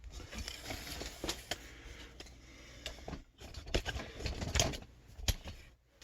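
Irregular clicks, taps and scraping of hard objects being handled, with a cluster of louder clicks about four to five seconds in, stopping shortly before the end.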